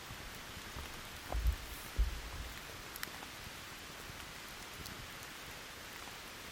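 Steady rain with the occasional sharp crackle of a wood campfire. Two short, low thumps about one and a half and two seconds in are the loudest sounds.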